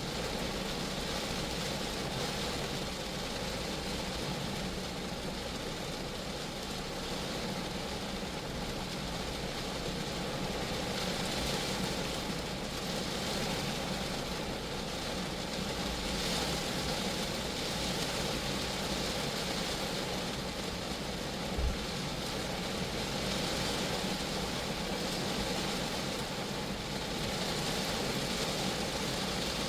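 Steady rain falling on a Geo Metro's body, an even hiss of drops with a low rumble under it. One short low thump comes about two-thirds of the way through.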